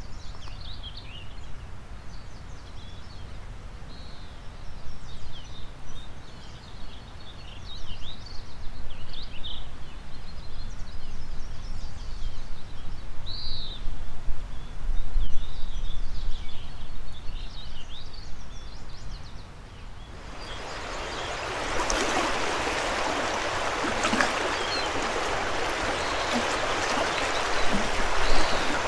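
Songbirds chirping and trilling over a low rumble of wind on the microphone. About twenty seconds in, this gives way suddenly to the loud, steady rush of a fast mountain river.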